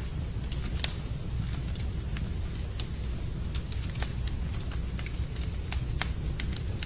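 Wood fire crackling in a fireplace: irregular sharp pops and snaps over a steady low rumble, with a louder pop about a second in and another about four seconds in.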